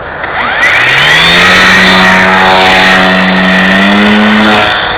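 Electric motor and propeller of a ParkZone P-51 Mustang radio-controlled plane throttling up with a rising whine, running at high speed for about four seconds, then stopping near the end.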